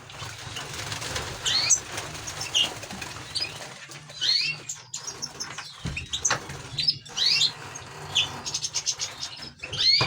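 Caged finches chirping and singing in quick, varied notes, with wings fluttering, over a steady low hum.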